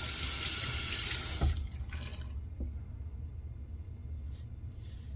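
Water running hard from a tap into a sink, shut off abruptly with a small knock about a second and a half in. After that come only a few faint, brief scratchy sounds.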